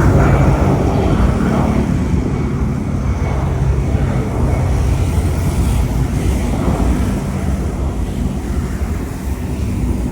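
Jet airliner taking off, its engines at takeoff power giving a loud, steady low rumble that eases slightly toward the end.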